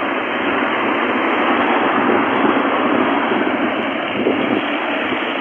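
Car driving along a wet, flooded road: a steady hiss of tyres running through water, with road noise.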